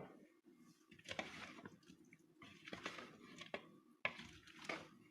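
Chopped salad being stirred in a bowl: three short bursts of wet squishing, with a few clicks of the utensil against the bowl.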